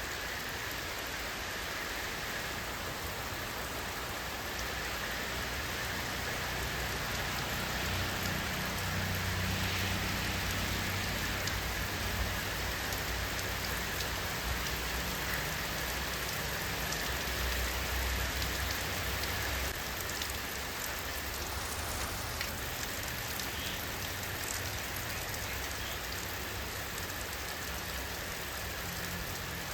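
Steady rain falling, a dense hiss with scattered drop ticks. A low rumble swells in and fades back out through the middle.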